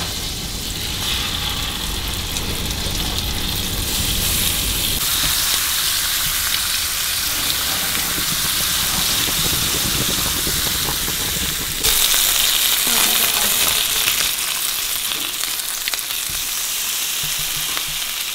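White bass fillets frying in butter and olive oil in a hot pan, a steady sizzle that turns suddenly louder about two-thirds of the way through.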